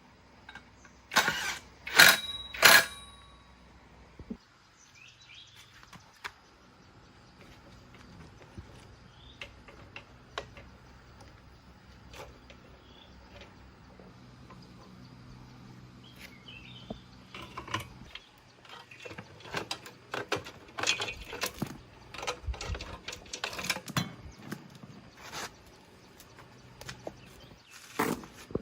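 Three sharp metallic clanks that ring briefly, about a second or two in, then a faint steady hum and a run of light clicks and knocks of metal tools and parts being handled.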